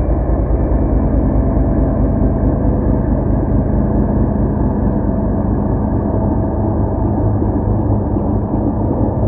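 Class 56 and Class 25 diesel locomotives' engines running under load on departure: a loud, steady heavy diesel drone with a throbbing low beat. The recording sounds dull and rough through a faulty microphone.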